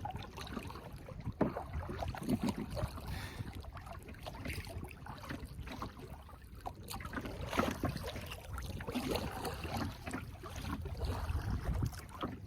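Kayak paddle strokes dipping and splashing in lake water, irregular and soft.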